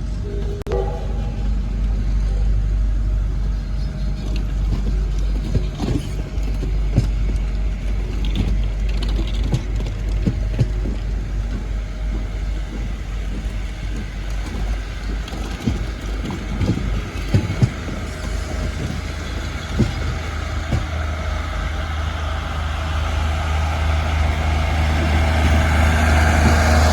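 A steam-hauled train moving along the track: a steady low rumble with scattered knocks, growing louder near the end.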